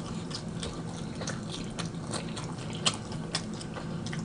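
A person chewing a bite of Philly cheesesteak egg roll close to the microphone: irregular mouth clicks, several a second, over a faint steady hum.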